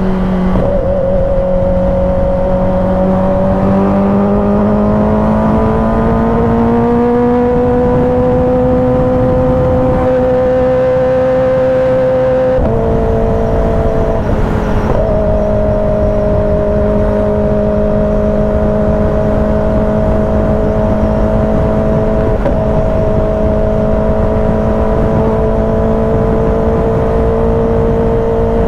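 Kawasaki ZX-10R's inline-four engine running at steady high revs while riding. Its pitch climbs slowly a few seconds in, drops a step a little before the halfway mark like a gear change, then holds steady.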